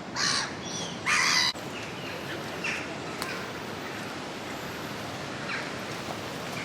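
Crow cawing: two loud, harsh caws about a second apart, followed by a few fainter calls, over a steady outdoor background rush.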